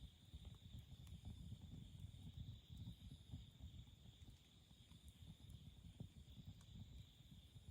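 Wood campfire burning quietly, a soft low rustle of flame with scattered faint crackles and pops, over a steady high-pitched drone.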